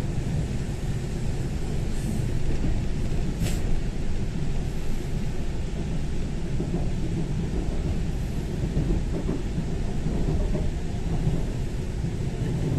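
Steady low rumble inside a moving Taiwan Railway passenger train, wheels running on the track, with two faint clicks within the first four seconds.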